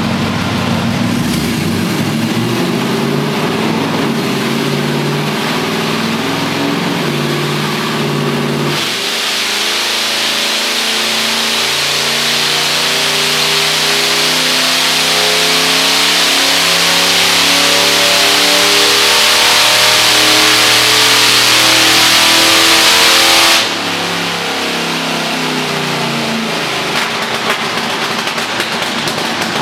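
A 1972 Chevy C10's LS1 V8 running on a chassis dyno: steady for about nine seconds, then a full-throttle dyno pull, revs climbing steadily for about fourteen seconds under a loud rushing noise, before the throttle is cut and the revs fall away.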